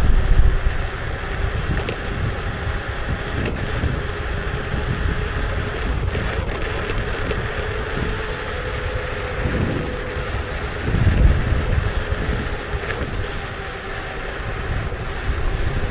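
Kukirin G2 electric scooter under way: the motor gives a steady whine over tyre and road noise, while wind buffets the microphone, swelling at the start, about eleven seconds in and near the end.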